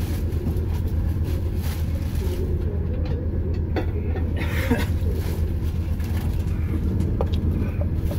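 Steady low rumble of a moving passenger train heard from inside the carriage, with a few faint clicks and a short rustle about halfway through.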